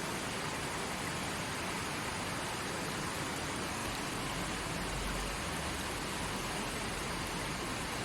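A forest stream flowing: a steady, even rush of water.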